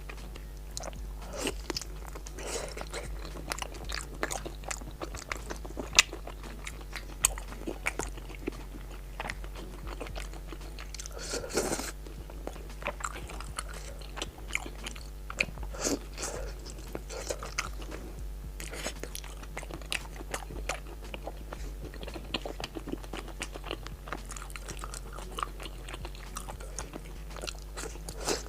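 A person eating close to the microphone: wet chewing and biting with irregular crunches and mouth clicks throughout.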